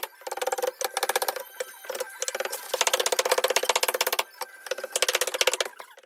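Power tool hammering with a rapid, even rattle in several bursts of a second or so, stopping and starting between them.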